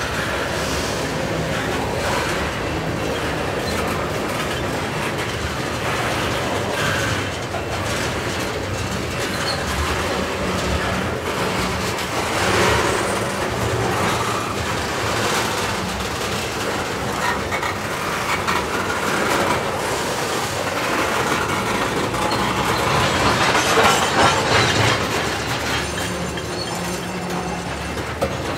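Freight train of tank cars rolling past, steel wheels running over the rail joints with a steady rumble and clatter. The sound swells louder briefly about halfway through and again near the end.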